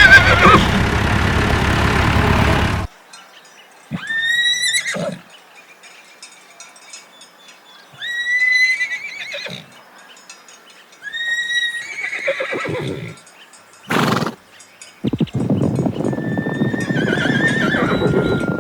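Horse neighing: a long whinny to start, then shorter whinnies every three to four seconds, and a brief sharp burst of noise near the end.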